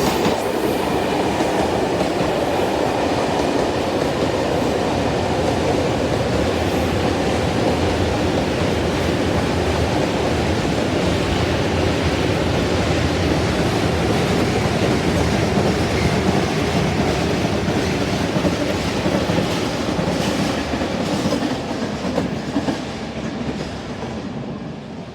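Train hauled by an SNCF BB 22200 electric locomotive passing close by: a steady, loud rumble of wheels on rail with many fine clicks, fading away over the last few seconds.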